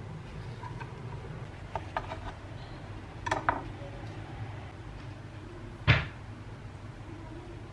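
Light clicks and clatters of kitchenware being handled, with one sharp knock about six seconds in, over a steady low hum.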